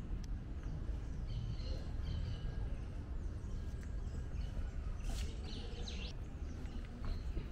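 Small birds chirping now and then in short high calls, a cluster about two seconds in and another about five seconds in, over a steady low background rumble.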